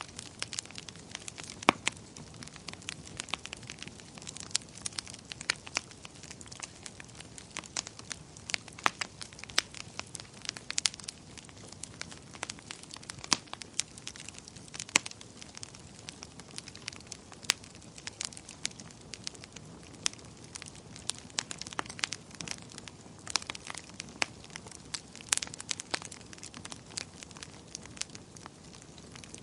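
Wood fire crackling in a fireplace: irregular sharp pops and snaps over a soft steady rush of burning.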